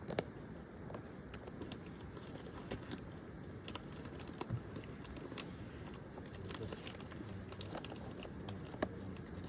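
Faint, scattered small clicks and crinkles of food and packaging being handled, over a steady low background noise.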